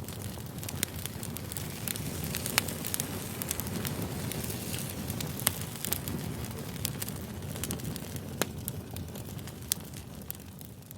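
Campfire crackling: a steady low rush with sharp pops and snaps scattered throughout, fading out near the end.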